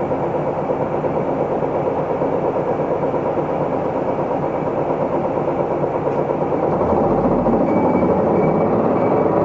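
Diesel engine of an Isuzu Erga Mio city bus running steadily, heard from inside the passenger cabin. A deeper rumble comes in about seven seconds in and the sound grows a little louder.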